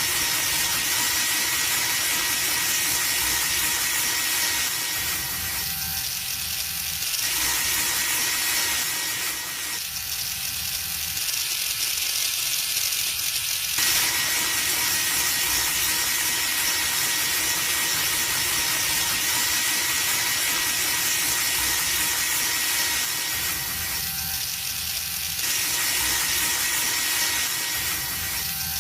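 Small electric motor of a homemade model chaff cutter running steadily, with a thin high whine over a hissy mechanical whir. The lower part of the sound thins out briefly a few times, near the middle and again near the end.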